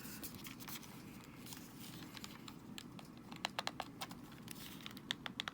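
Small plastic clicks from a Nintendo Switch Joy-Con being handled and snapped together during reassembly. A few scattered clicks come first, then a quick run of them in the last two seconds.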